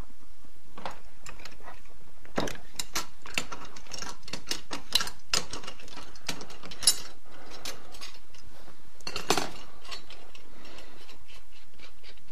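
Irregular metallic clicks and clinks of hand tools and parts as the diffuser and trigger guard assembly are unscrewed and taken off a Titan LX80 airless spray gun held in a vise.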